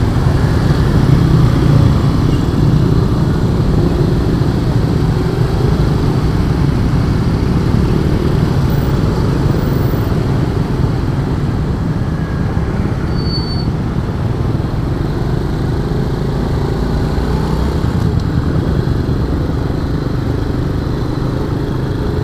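Honda Astrea Star's small single-cylinder four-stroke engine running steadily under way, heard from the rider's seat with the rush of the ride.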